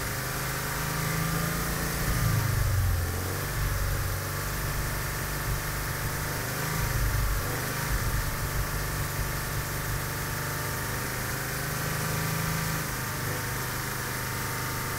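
Toyota FR-S's 2.0-litre flat-four engine held at about 3000 rpm, running steadily, the revs wavering slightly a few times, while GDI fuel-system cleaner is drawn into the intake manifold through the brake-booster vacuum line.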